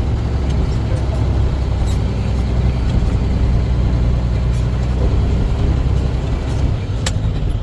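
Dump truck engine running steadily, a deep drone heard from inside the cab, its note changing about six and a half seconds in. A sharp click comes about seven seconds in.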